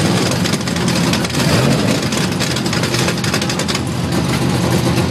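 High-performance V8 hot-rod engine revving loudly, with a harsh, open-exhaust rumble.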